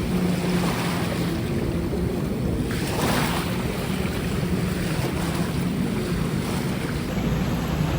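Jet ski engine running with a steady hum, under rushing water and wind buffeting the microphone; a louder rush of spray about three seconds in.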